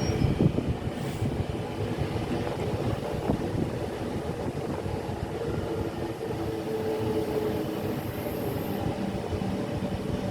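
A train running on the track, a steady rumble with a faint tone over it.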